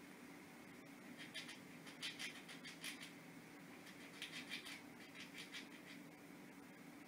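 Squirrel gnawing at a hazelnut shell with its teeth: groups of rapid, short, scratchy strokes in several bouts, over a faint steady hum.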